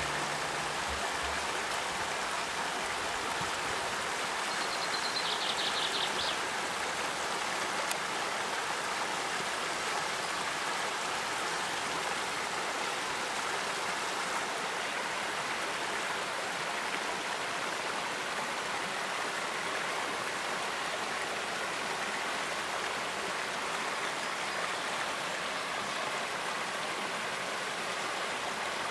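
Mountain stream rushing steadily, an even hiss of running water. A short, fast run of high ticks comes about five seconds in.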